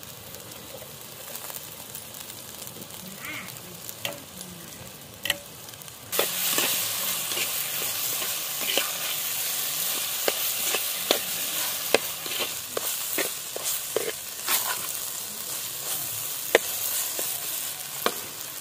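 Fish pieces frying in oil and masala in a clay pot, sizzling as a perforated steel ladle stirs and scrapes them, with sharp clicks of the ladle against the pot. About six seconds in the sizzling suddenly becomes much louder.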